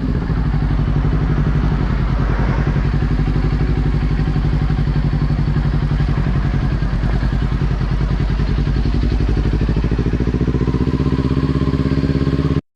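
Kawasaki Ninja 400's parallel-twin engine running at a steady, unchanging speed with a rapid, even exhaust pulse. It cuts in and out abruptly.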